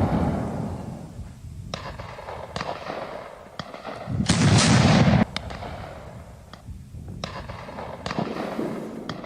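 Battle sounds: scattered single gunshots, with a loud artillery-like boom about four seconds in that cuts off abruptly, and the tail of another boom fading at the start.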